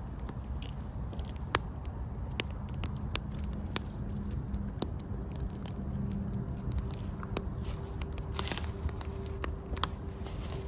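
Wood campfire crackling, with irregular sharp pops from the burning sticks over a steady low rumble.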